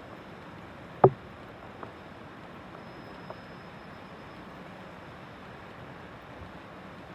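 Steady rushing storm background noise, with one sharp click about a second in and two faint ticks later.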